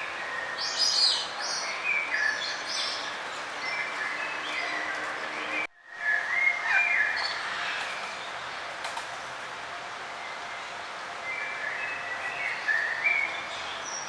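Small songbirds chirping and trilling, in short high calls over a steady outdoor hiss, busiest in the first couple of seconds and again just after a brief dropout about six seconds in.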